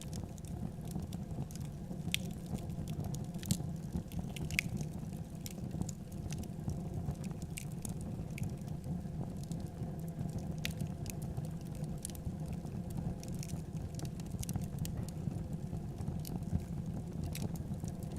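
Wood fire crackling in a fireplace: irregular sharp pops and snaps over a steady low rumble of flame.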